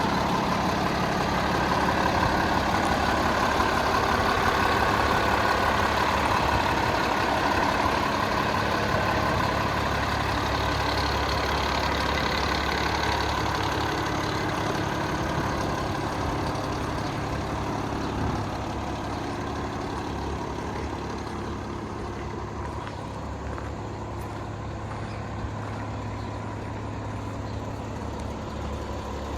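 Cummins L9 inline-six diesel engine of an International 4400 truck idling steadily, loudest in the first half and growing gradually quieter.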